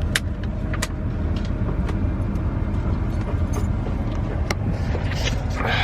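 A motor vehicle's engine running with a steady low rumble, with a few sharp clicks and a brief hiss near the end.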